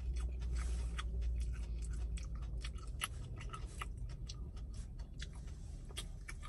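A person chewing coleslaw close to the microphone: a run of small wet clicks and crunches, with a plastic fork scraping a small plastic cup.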